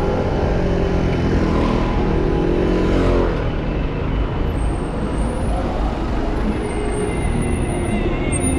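City street traffic heard from a moving bicycle, with a steady low wind rumble on the chest-mounted microphone. About two seconds in, a passing vehicle's engine rises and then falls in pitch.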